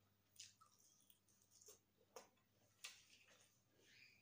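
Near silence with a few faint, short clicks and wet mouth sounds of a person chewing food close to a clip-on microphone.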